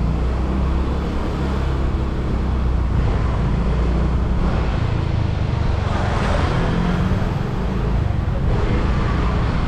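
Motorbike engine running on the move, its pitch shifting a little with speed, under wind and road noise. A louder hiss swells briefly about six seconds in.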